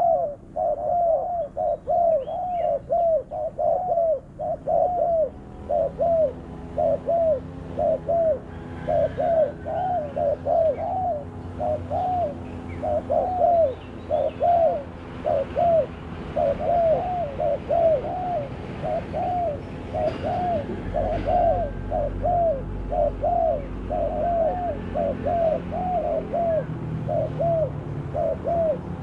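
Spotted dove (terkukur) cooing over and over, a steady run of short arched coos about two a second.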